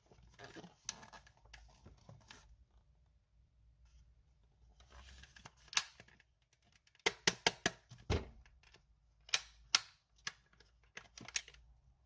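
Handling noise: light rustling, then a quick run of five or six sharp clicks a little after halfway, followed by a few more single clicks and taps, as hard parts are handled.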